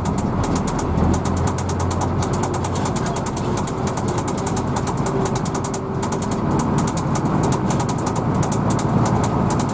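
Diesel engine of a Hino AK bus running steadily, heard from inside the cabin, with a rapid, even high-pitched ticking over the drone.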